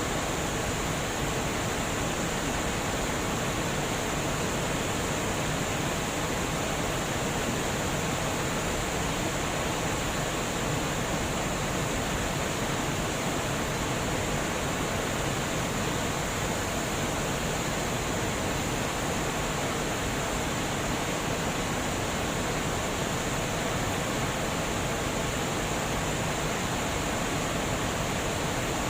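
Water flowing over a dam, a steady unbroken rush that does not change.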